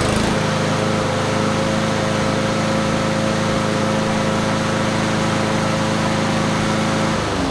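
Husqvarna HU800AWD lawn mower's engine, just pull-started, running steadily at speed, then shutting off and winding down about seven seconds in.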